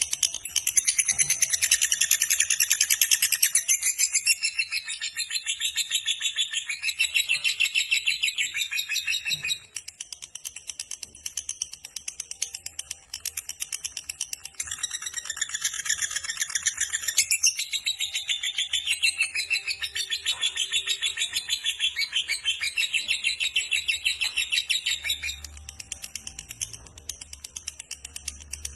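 Lovebird giving its long 'ngekek' chatter: a rapid, high-pitched trill of many notes a second, held in long unbroken runs. One run lasts about nine seconds, and after a quieter gap two more long runs follow.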